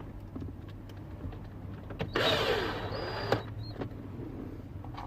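Power screwdriver driving a screw for just over a second, its whine falling and then rising, stopping with a sharp click.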